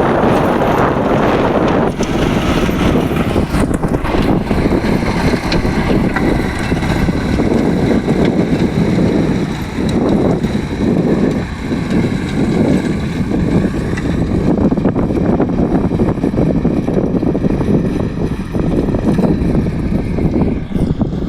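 Swaraj 742 XT tractor's diesel engine running steadily under load, driving a rotavator through the soil, with wind buffeting the microphone.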